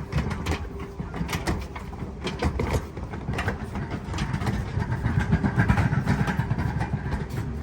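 A low engine rumble with many short knocks and clatters over it, growing busier about halfway through.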